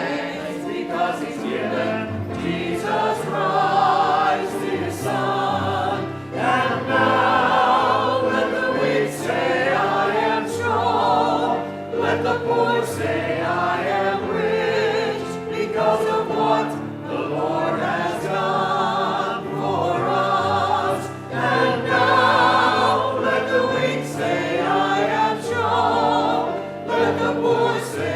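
Church choir singing with instrumental accompaniment: voices with vibrato over held low notes.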